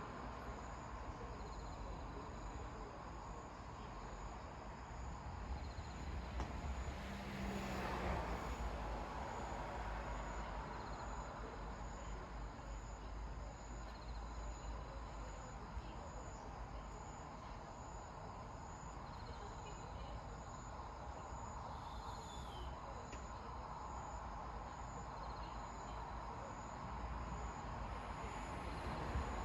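Night ambience of crickets chirping in a steady, evenly spaced rhythm over a low background rumble, with one brief louder swell about seven or eight seconds in. No thunder is heard.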